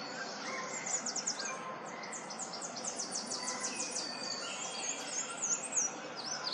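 Birds singing: high quick chirps, then a fast trill of about eight strokes a second from about two to four seconds in, then more looping chirps, over steady background noise.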